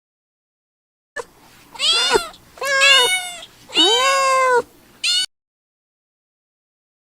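Domestic cat meowing: starting about a second in, three long meows that rise and then fall in pitch, with a short meow near the end.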